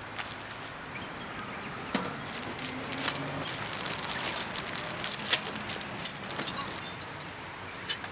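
Irregular clicks, clinks and rustling of camping gear being handled, growing busier about five seconds in.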